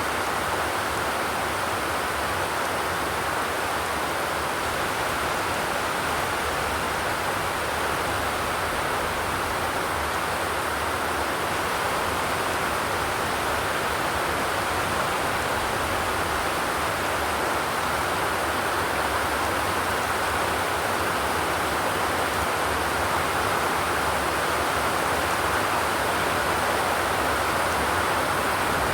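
Steady, even rain with no thunder.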